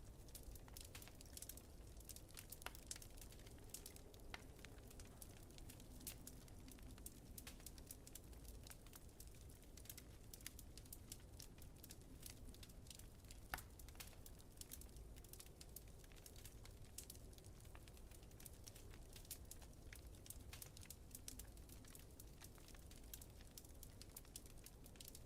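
Wood fire crackling in a fireplace, with frequent small pops and snaps scattered irregularly over a faint low rumble.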